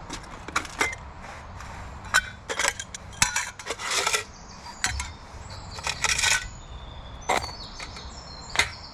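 Metal camping gear being rummaged through: an irregular run of sharp clinks and clatters with brief metallic ringing, the busiest stretch between about two and six seconds in.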